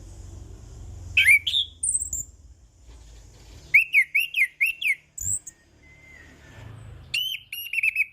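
Chestnut-capped thrush (anis kembang) singing in several bursts of rapid, high whistled notes, with a faint low hum underneath.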